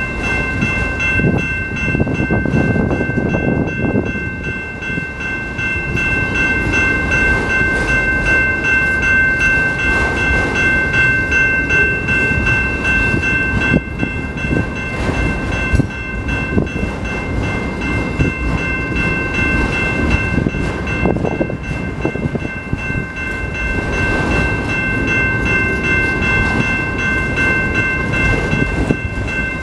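Autorack freight cars rolling past with a steady rumble and wheel clatter, while a level-crossing bell rings without a break over it.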